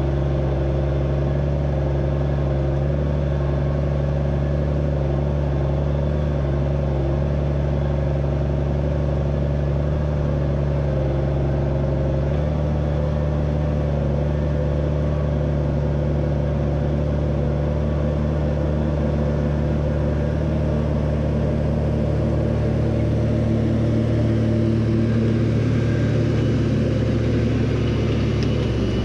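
Tractor engine running steadily at a constant note, the pitch shifting slightly about twelve seconds in and again near the end.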